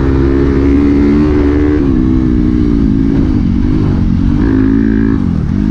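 Dirt bike engine running under throttle while riding. Its pitch holds steady for about two seconds, then rises and falls as the throttle changes, and dips sharply near the end.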